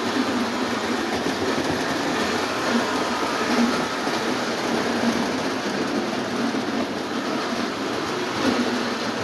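Lionel O27 model train running on three-rail track: a steady whir of the electric motor with the rumble and clatter of wheels on the rails.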